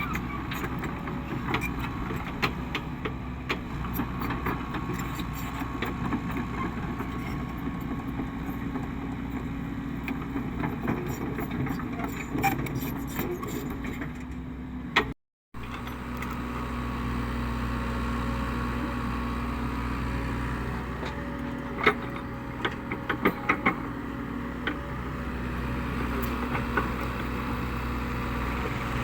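Cat 307E2 mini excavator's diesel engine running steadily, with scattered metallic clanks and knocks from the machine. The sound drops out for a split second about halfway through.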